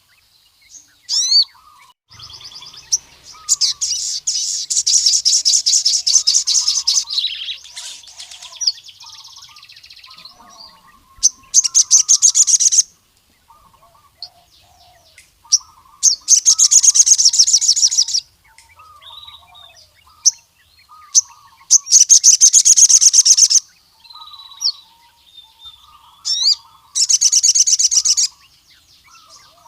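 Male sogon sunbird singing: loud, rapid, high-pitched trills in bursts of one to four seconds, repeated every few seconds, with soft short chirps in between.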